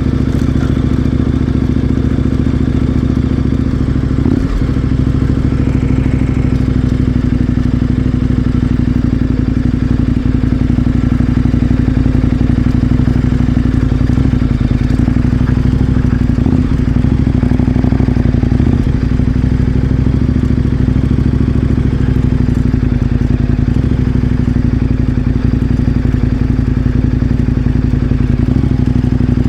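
KTM 1090 Adventure R's parallel-twin engine running at a low, steady speed, its pitch barely changing, with a few light clatters.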